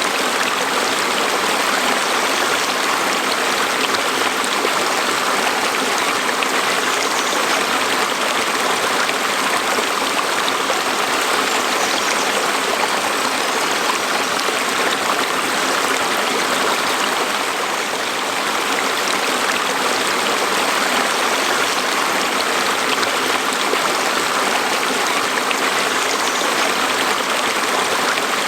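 A stream flowing, a steady rush of water over stones.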